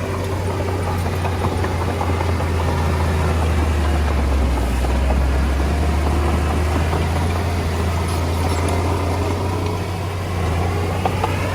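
Komatsu D20A bulldozer's diesel engine running steadily with a low rumble, with scattered faint clicks over it.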